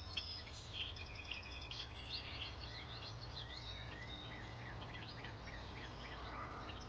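Several songbirds chirping and trilling in quick, overlapping calls, busiest in the first few seconds, over a low steady rumble.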